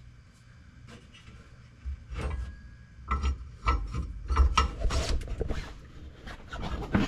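Spare tire tool rod scraping and knocking against the spare tire hoist as it is turned and worked into place under the truck. It is quiet for about two seconds, then comes an irregular run of scrapes and clunks.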